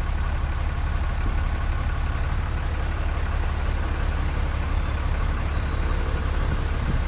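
Steady road and engine noise of a vehicle being driven slowly along a street: an even low rumble under a constant hiss.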